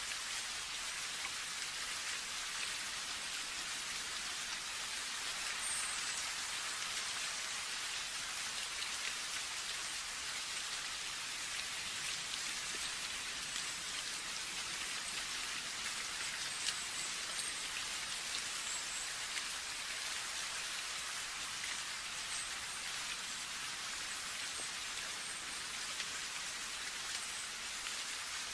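Steady rain falling, an even hiss with a few small drop ticks and no thunder.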